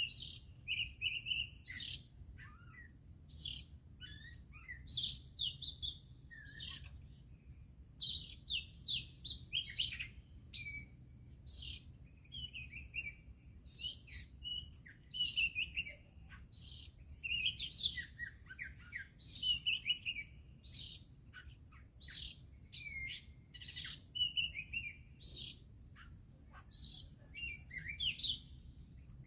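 Birds singing and chirping: a dense run of short whistled notes and chirps with brief pauses, over a steady high-pitched whine.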